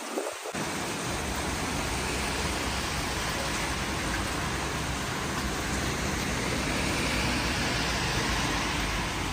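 Heavy rain falling in a steady, even hiss, settling in about half a second in.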